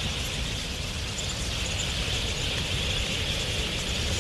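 Massed chatter of a huge wild budgerigar flock in flight, thousands of calls blending into one steady high din over a low steady rumble.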